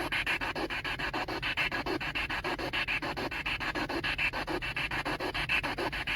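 Ghost-hunting spirit box sweeping through radio stations: fast, choppy static that stutters several times a second, with brief fragments of sound between the chops.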